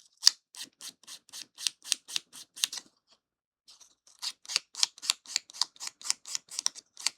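Small piece of sandpaper rubbed briskly back and forth over a tiny kit piece to take off moulding flash: quick, even scratching strokes about five a second, in two runs with a short pause between them about three seconds in.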